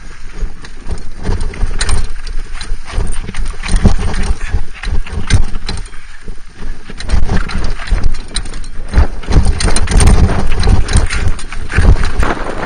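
Mountain bike clattering and rattling over a rough dirt trail: many irregular quick knocks over a heavy low rumble of wind on the microphone.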